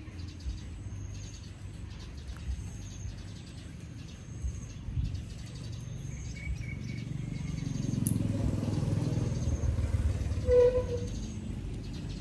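Small birds chirping in the background over a low, steady rumble that swells about seven seconds in and eases off again, with one short pitched call near the end.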